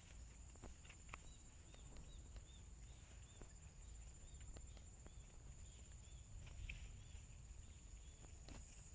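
Insects droning faintly in one steady, high, thin tone, with a run of short chirps repeated a few times a second from about a second in until near the end, and faint scattered ticks.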